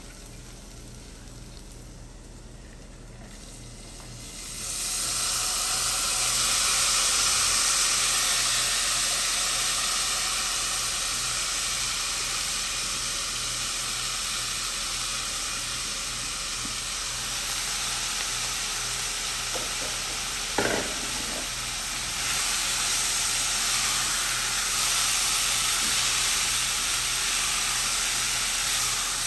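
Garlic and onion sizzling as they fry in a pan. The sizzling is quieter at first and grows much louder about four seconds in, with a short knock about twenty seconds in.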